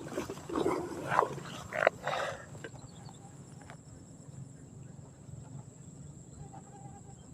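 Irregular splashing at the water surface for about two seconds, then a quieter stretch with a steady low hum and a faint high whine.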